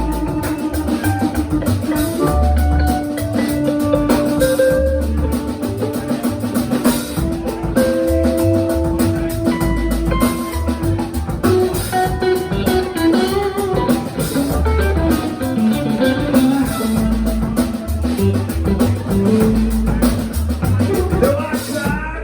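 A live blues-rock band plays an instrumental break: a lead guitar holds and bends sustained notes over a steady drum kit beat and bass.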